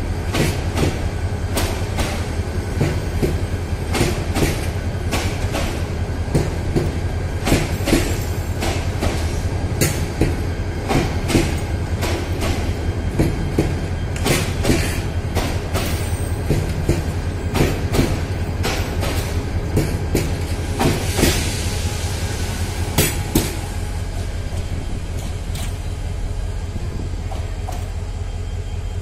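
Bangladesh Railway intercity passenger coaches rolling slowly out of the station: a steady low rumble with irregular clacks of the wheels over the track. The clacks thin out and the sound gets quieter about three quarters of the way through.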